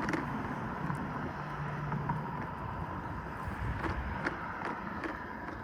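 Riding noise from an InMotion E20 electric unicycle: a steady low rumble of tyre and wind on the microphone, with a faint steady tone and a few light clicks.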